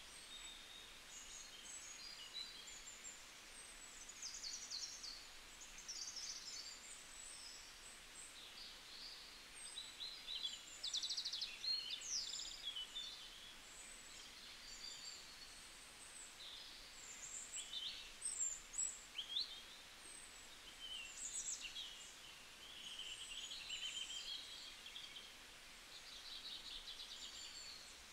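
Small birds chirping: many short high chirps and rising or falling calls, broken a few times by quick rapid trills.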